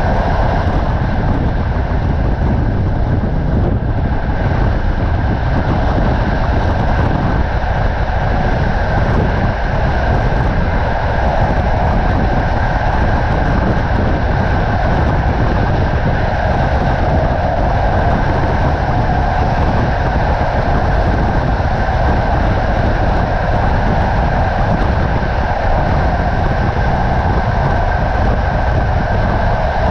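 Passenger train running at speed, heard from a carriage window: a steady rumble of the wheels on the rails with a constant rush of noise.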